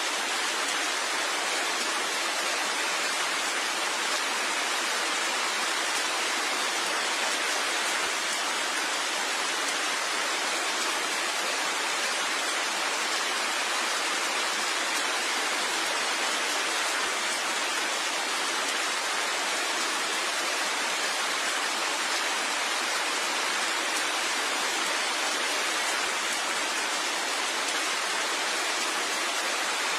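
Steady rain falling: an even, unbroken hiss with no separate drops standing out.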